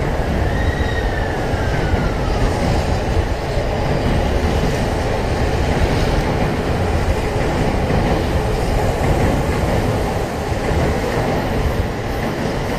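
Electric train running past close by: a steady loud rumble of wheels on rail, with a thin high whine that falls in pitch during the first couple of seconds.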